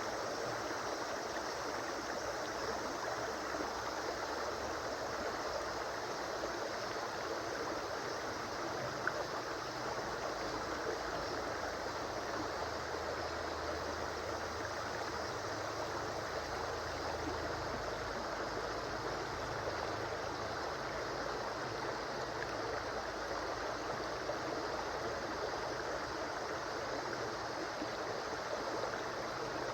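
A river stream flowing and babbling steadily over stones, an even rush of water with a brief small click about nine seconds in.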